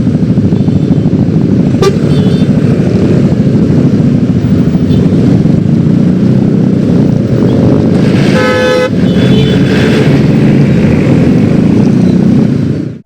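Yamaha X-Ride 113cc scooter's single-cylinder engine running loudly and steadily on the road. A vehicle horn sounds once for under a second about eight seconds in. The sound cuts off suddenly at the end.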